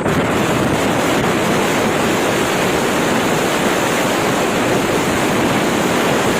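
Steady, loud rushing noise with no clear pitch or rhythm.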